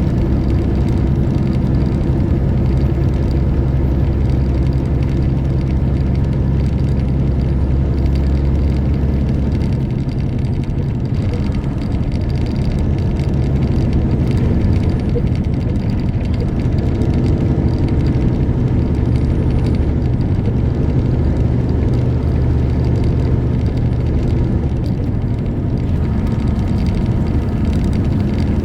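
Semi truck's diesel engine running while driving, a steady low drone. Its deepest rumble drops away about ten seconds in, and the engine note shifts again around seventeen seconds.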